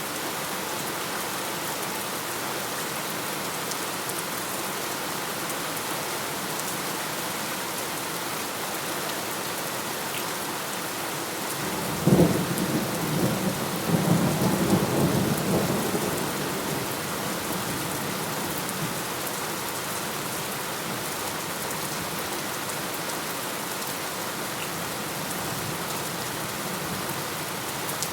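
Steady rain falling, with a single clap of thunder about twelve seconds in that cracks sharply, rolls on in a second swell and dies away over about five seconds.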